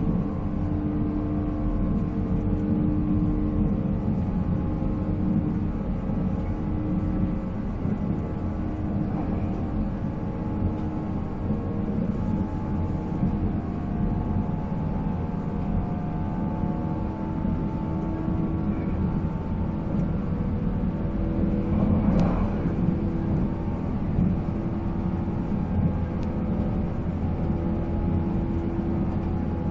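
A 485-series electric train running on the line, its MT54 traction motors and gearing giving a steady whine over the deep rumble of the wheels on the rails. About two-thirds of the way through there is a brief louder swell.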